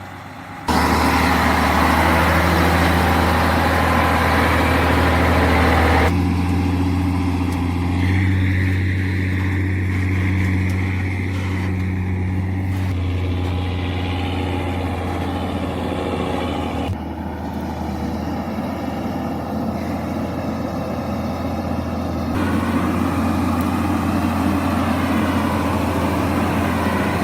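Scania 112 timber truck's diesel engine running steadily, in a string of short takes, with its tone changing abruptly at each cut.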